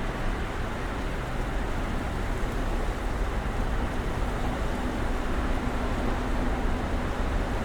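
Snowstorm ambience outside an apartment building: a steady, even hiss of wind and falling snow over a low rumble, with a faint low hum about five to seven seconds in.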